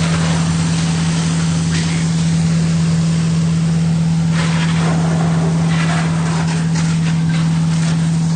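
A fire engine's motor runs at a steady, constant drone while driving its pump, over the even rushing hiss of the water stream.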